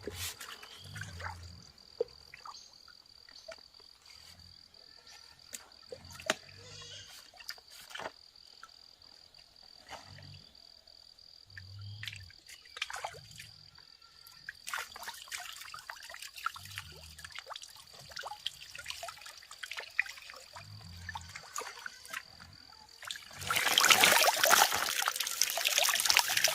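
Water trickling and splashing, with scattered small drips and clicks, soft low pulses every second or two, and a steady high-pitched tone. About three seconds before the end, a loud stretch of water pouring and splashing begins and runs on.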